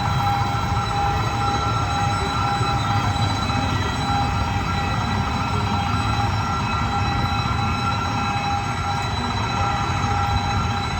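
Passenger train rolling past steadily: a continuous rumble of carriages on the track with steady high ringing tones over it.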